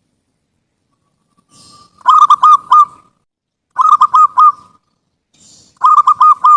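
Zebra dove (perkutut) song: three phrases starting about two seconds in, each a soft opening followed by a quick run of loud, clipped coos.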